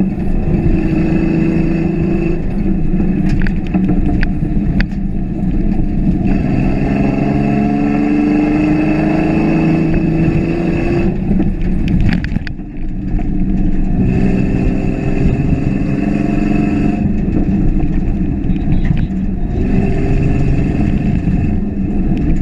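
A 1989 Ford Ranger prerunner's engine running while it drives, its pitch climbing slowly under acceleration about a third of the way in. It eases off briefly just past halfway, then pulls again, with a few sharp knocks early on.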